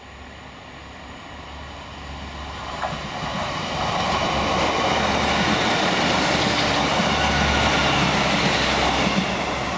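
A diesel multiple-unit passenger train approaching and running past at speed. The engine drone and wheel-on-rail noise grow steadily louder for about four seconds and stay loud as the carriages pass, then the sound cuts off abruptly at the end.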